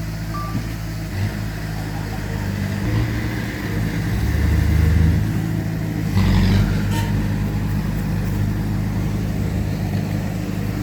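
Heavy diesel engines of a bulldozer and dump truck running under load, swelling and revving twice, about four and six seconds in. A short reversing beep sounds near the start.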